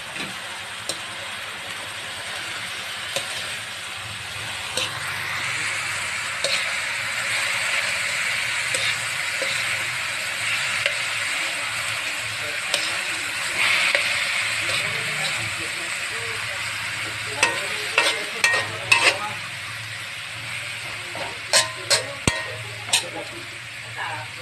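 Chopped longganisa, garlic and green chillies sizzling in an aluminium wok as a spoon stirs them. The sizzle swells a few seconds in. In the second half come a run of sharp clinks and scrapes of the spoon against the pan.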